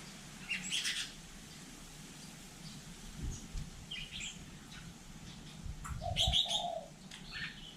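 Hill myna giving short, high calls and chirps in three bursts: about half a second in, around four seconds, and a fuller, partly lower call around six seconds.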